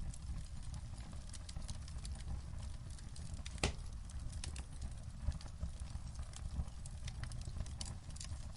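Wood fire crackling in a fireplace: scattered sharp pops and ticks over a steady low rumble, with one louder pop a little before halfway.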